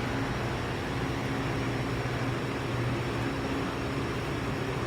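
A steady low mechanical hum that keeps an even level throughout, with no clicks or changes.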